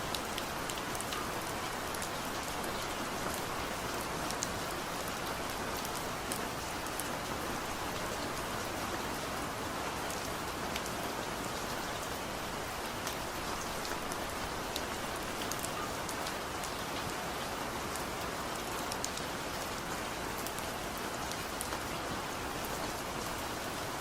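Heavy rain falling steadily: a dense, even hiss with scattered sharp drop impacts.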